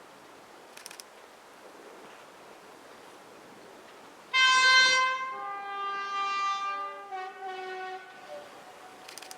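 Diesel locomotive's two-tone horn sounding about four seconds in: a loud high note for about a second, then a lower note held for a few seconds before it stops.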